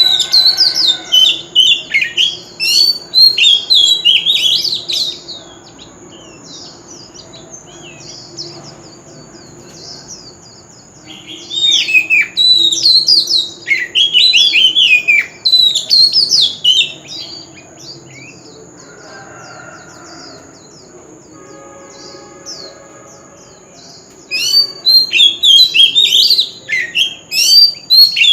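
Oriental magpie-robin singing loud, varied whistled phrases of quick rising and falling notes, in three bouts of about five seconds each with quieter pauses between. A thin, steady high tone runs underneath.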